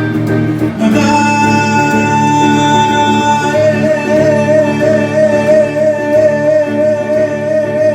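Live band holding the song's final chord, with a long high note wavering in vibrato over it from about halfway through.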